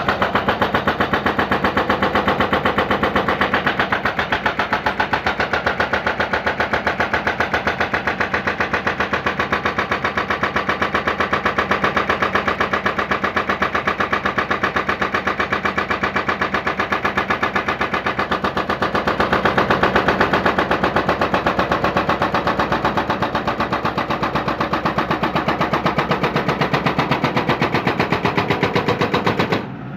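John Deere 160C excavator's hydraulic breaker hammering on the concrete silo foundation: a rapid, steady pounding with the excavator's engine running underneath. It breaks off briefly right at the end.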